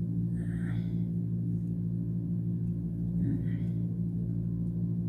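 Steady low electrical hum made of several even, unchanging pitches, like mains hum on the recording. Two brief faint soft rustles come through it, about half a second in and again a little after three seconds.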